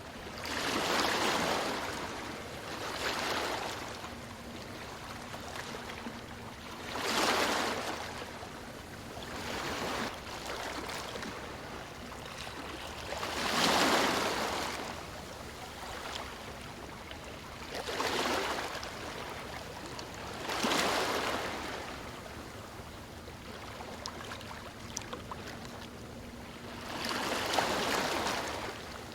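Sea waves breaking on a stony shore, each wave coming in as a rush of noise that swells and fades, every few seconds, over a steady wash of water.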